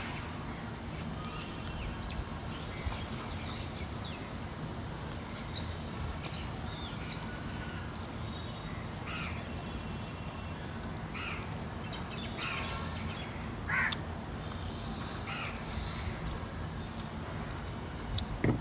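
Crows cawing several times, short harsh calls bunched in the middle and later part, over a steady low hum and faint scattered clicks.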